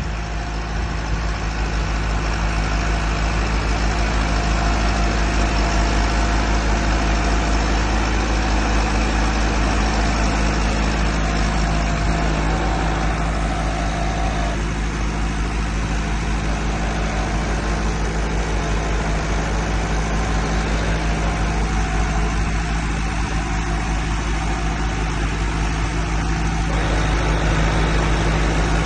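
Massey Ferguson 385 4WD tractor's diesel engine running steadily at an even speed.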